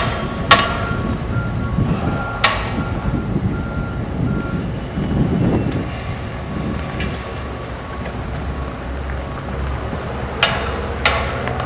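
Toyota 8-Series forklift's warning alarm beeping in short repeated pulses for the first five seconds or so, over the low running sound of the truck moving. Two sharp clicks come in the first few seconds.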